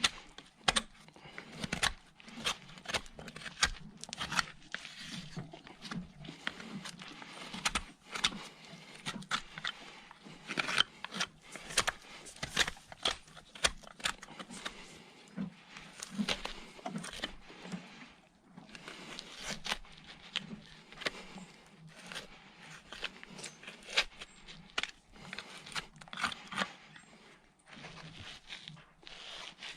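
Farrier's hand tools cutting and scraping hoof horn: irregular sharp clicks and short scrapes, often a few a second, with brief lulls around the middle and near the end.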